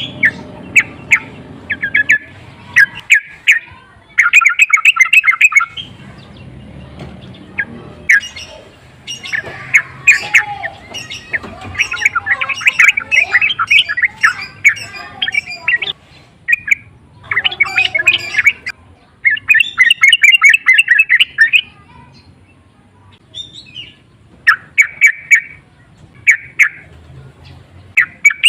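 Yellow-vented bulbul calling in repeated bursts of fast, chattering notes, each burst lasting up to about two seconds with short gaps between.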